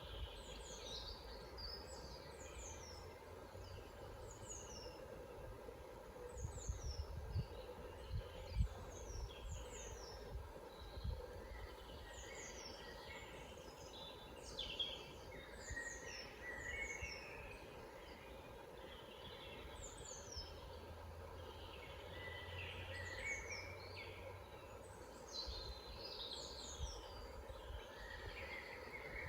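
Woodland birds singing: many short, high downward-sliding notes repeated every second or so, mixed with lower warbling chirps. Occasional low rumbles sit beneath the song.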